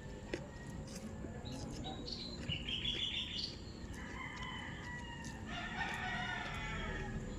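A rooster crowing, with a long crow about five and a half seconds in, and smaller birds chirping.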